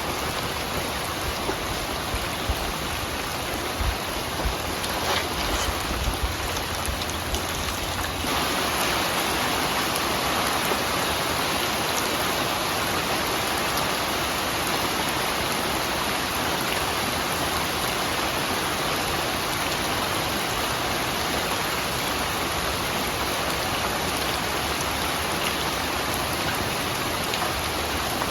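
Steady rain falling: an even hiss of rain on surfaces. A few low thuds sound in the first eight seconds.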